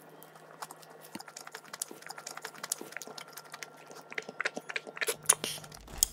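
Close-miked chewing of a crisp, breadcrumb-coated puff-pastry sausage bread: a run of small crunchy crackles that grows louder and busier toward the end, with a few sharper clicks.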